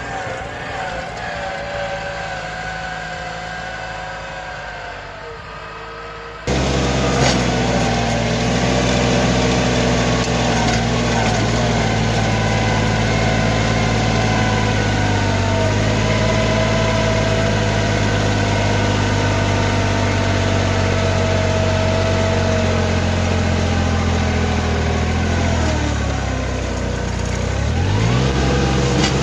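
Engine of an LS MT225HE 25 hp compact tractor running steadily while pushing snow. The sound steps up abruptly to a louder level about six seconds in, and near the end the engine pitch dips and then climbs again.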